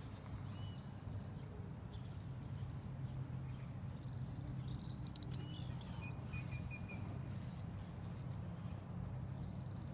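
Waterside ambience: a steady low hum with a few bird chirps about half a second in and near the middle, and a short bird trill about two thirds through.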